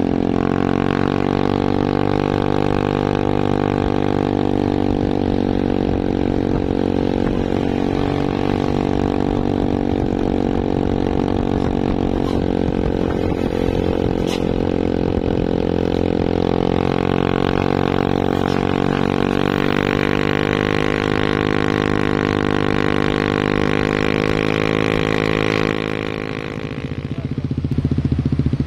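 Heavy truck engine running at a steady, constant speed with a droning hum. Near the end it drops away briefly and a different engine sound takes over.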